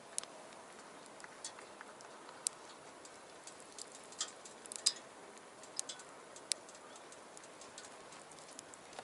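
Wood fire crackling in a small stainless box stove: irregular sharp pops and snaps over a steady low hiss, the loudest pop about halfway through.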